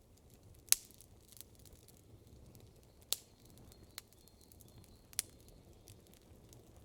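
Wood campfire crackling: four sharp pops, the loudest about a second in, over a faint, steady low background.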